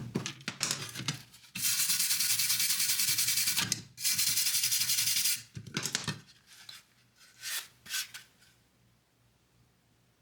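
Brushing and scraping strokes on freshly brazed metal, broken by two steady hissing stretches of about two seconds and a second, then a few more scratchy strokes.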